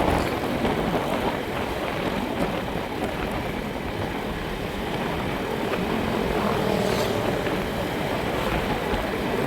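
Steady running noise of a moving vehicle: a low engine drone mixed with wind and rolling hiss, holding an even level throughout.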